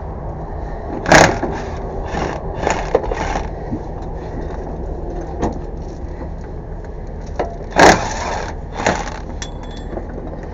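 Knocks and clatter of hard objects being handled, with two loud bangs, one about a second in and one near eight seconds, and a few softer knocks, over a steady low hum.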